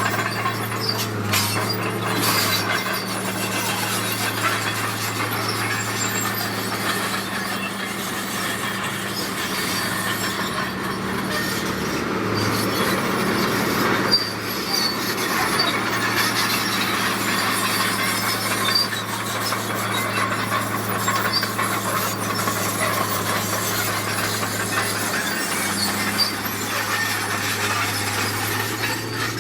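Bulldozer's diesel engine running steadily while its crawler tracks squeal and grind. The engine note drops back for a few seconds midway, then picks up again.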